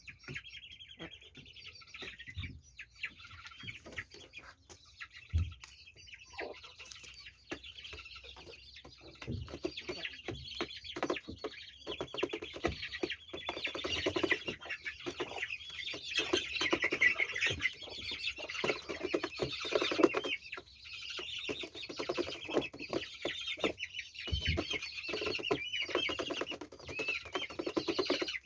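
A flock of chickens clucking, many overlapping short calls, getting busier and louder from about ten seconds in.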